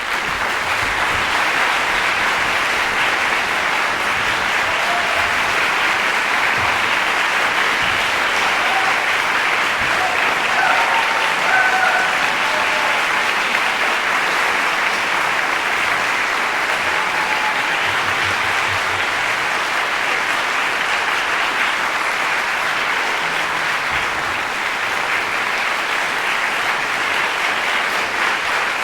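Concert-hall audience applauding after a string octet premiere, the clapping breaking out suddenly from silence and then holding steady. A few short shouts from the crowd rise above it about ten seconds in.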